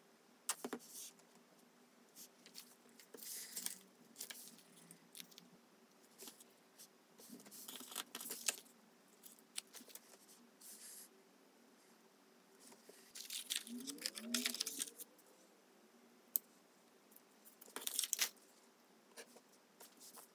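Quiet handling of small craft pieces on a tabletop: soft rustles and crinkles of paper flowers and plastic packets coming in short bursts, with light clicks and taps of metal tweezers and a plastic glue bottle. A short rising squeak sounds about two-thirds of the way through.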